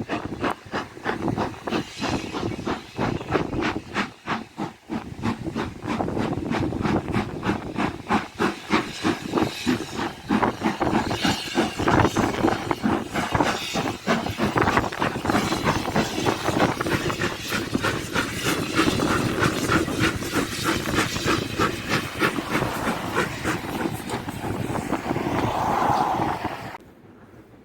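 LMS Stanier Black Five steam locomotive working a train, with a quick, even run of exhaust beats over steady steam hiss. The sound cuts off abruptly near the end.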